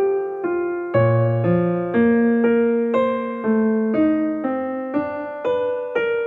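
Soft background music played on an electric piano or keyboard, a new note or chord struck about every half second.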